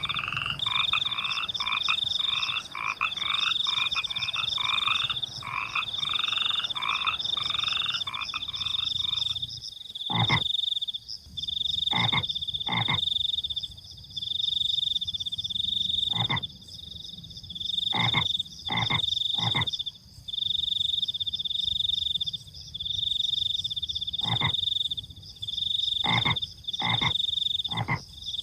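Frogs croaking and a cricket chirping. The cricket keeps up a high trill in pulses of about a second. A dense, rapid frog chorus breaks off about a third of the way in, after which single loud, sharp croaks come every second or two, some in pairs.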